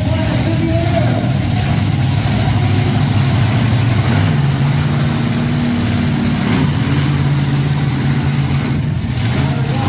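Monster truck engine running loud and steady at low revs, its pitch shifting up and down a few times.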